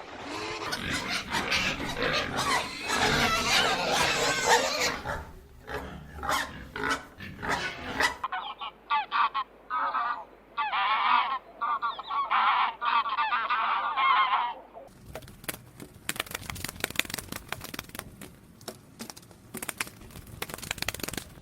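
Geese honking in repeated calls, in a string of short clips with cuts about eight and fifteen seconds in, where the character of the sound changes.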